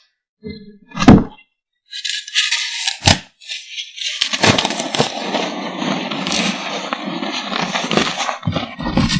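Reformed gym chalk pieces being crushed by hand: a sharp crack about a second in, another about three seconds in, then steady gritty crumbling of the powder.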